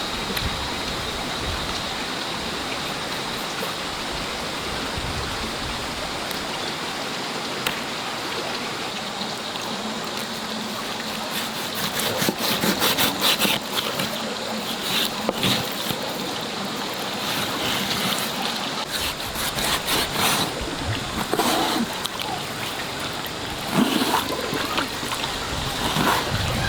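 Steady rush of running water; from about twelve seconds in, irregular splashing and knocks join it.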